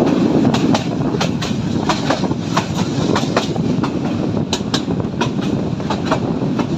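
Local passenger train running between stations, heard from aboard: a steady rumble of the carriages with wheels clacking sharply over the rail joints several times a second.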